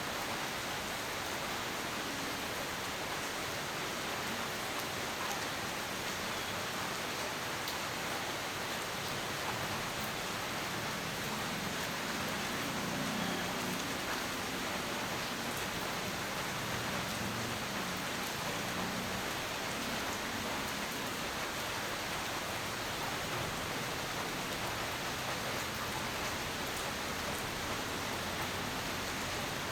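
Steady heavy rain, an even hiss of falling drops. A faint low rumble swells and fades in the middle.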